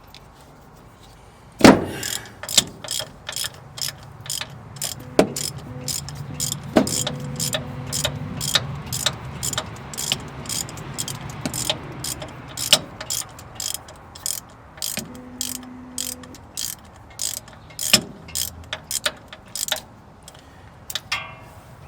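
Ratchet clicking as it loosens a spark plug from a small-block Chevy 350 through a socket and short extension: one sharp clack about two seconds in, then a long run of clicks, about two or three a second.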